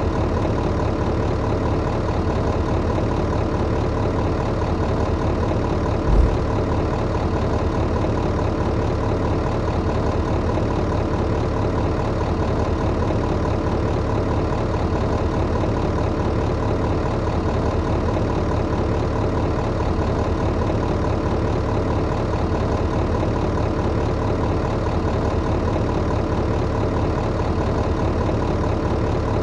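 Tractor engine idling steadily at an even pitch, with one brief low thump about six seconds in.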